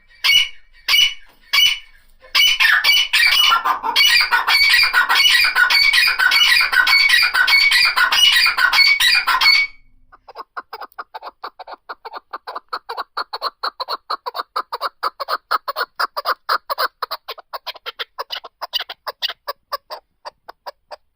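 Partridges calling. First come a few separate calls, then a loud, dense chorus of many overlapping calls that cuts off abruptly about halfway through. After that comes a quieter rapid run of short repeated notes, several a second.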